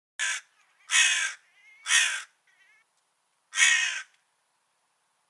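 A crow cawing: four harsh caws about a second apart, the first short and quieter, with a longer pause before the last, and a couple of faint short calls in between.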